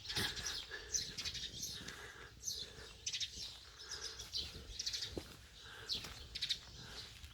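Small birds chirping, a run of short, high, falling calls repeated many times.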